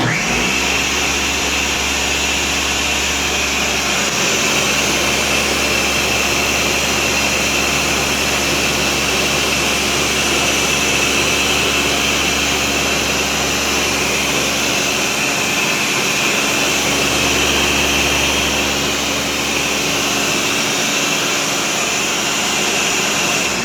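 Countertop blender running at full speed, blending blueberries, blackberries and Irish sea moss into a juice. It spins up at the start, runs steadily and loudly, and is switched off at the end.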